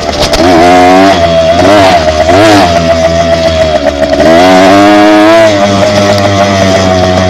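Dirt bike engine running loud while being ridden, its revs rising and falling several times with the throttle, including a longer rise held for about a second around the middle.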